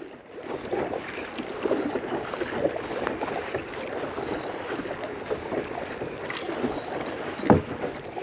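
Water splashing and lapping around a kayak as it is paddled, with one louder thump near the end.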